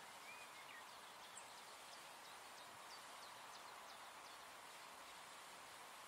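Near silence: a faint even hiss, with a run of faint, high bird chirps through the first four seconds or so.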